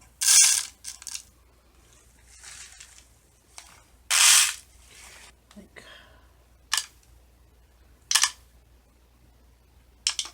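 Small beads dropped and poured into a lantern noisemaker, clattering in two loud short pours, one at the start and one about four seconds in, with a softer one between, then a few single sharp clicks as odd beads fall in.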